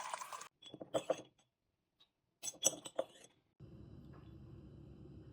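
Light clinks of kitchenware in two short clusters, about a second in and again near three seconds, followed by a steady low hum of background noise.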